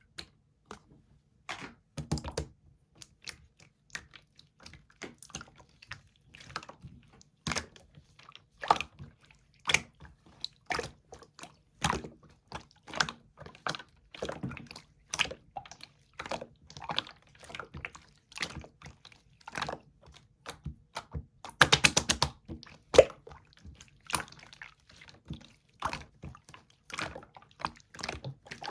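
Soft slime being squished and folded by hand, making a string of wet clicks and pops, one or two a second. A rapid, louder burst of crackling pops comes about three quarters of the way through.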